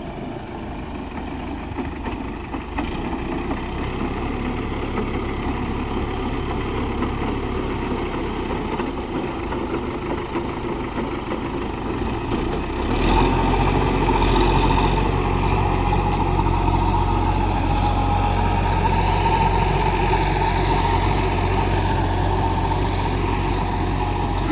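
Sonalika tractor's diesel engine running steadily while ploughing a field; about halfway through it grows louder, with a steadier, deeper drone.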